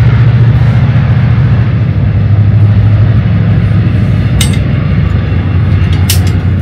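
A passing train's loud, steady low rumble. A few light metal clinks from camping-stove parts being handled sound over it, about four and a half and six seconds in.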